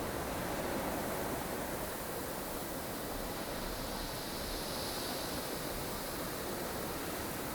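Strong, blustery wind of a snow storm: a steady rushing noise, with a gust of higher hiss swelling and fading about four to six seconds in.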